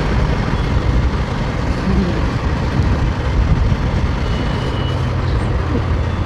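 Bajaj Pulsar NS200's single-cylinder engine running as the motorcycle is ridden, a steady low rumble under road and wind noise.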